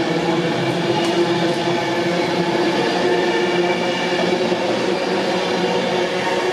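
Class 390 Pendolino electric train running past at speed, a steady rushing rumble with several held humming tones.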